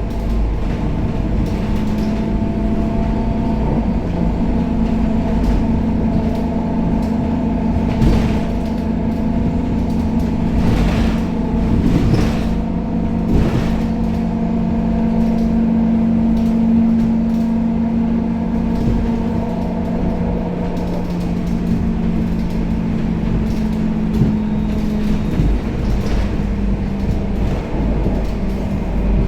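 Interior of a Scania K270UB city bus on the move, its five-cylinder diesel engine running with a steady drone and low rumble while panels and fittings creak and rattle. The engine note changes about 25 seconds in.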